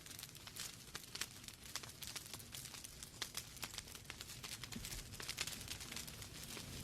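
Wood fire burning in a fireplace, with many small irregular crackles and pops over a soft steady hiss.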